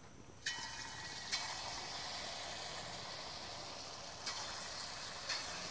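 Lumps of soaked semolina dough dropped one at a time into hot oil, sizzling as they fry. The sizzle starts suddenly about half a second in and flares again each time a new piece goes in, three more times.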